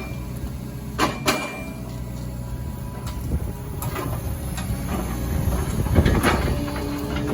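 Engine of the machine lifting a big hickory log on a chain, running steadily, with two sharp metal clanks about a second in and a loud knock near six seconds as the chain and log shift.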